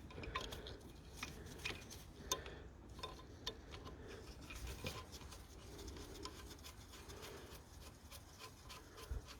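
Faint, scattered light clicks and rubbing of small metal engine parts being handled by hand.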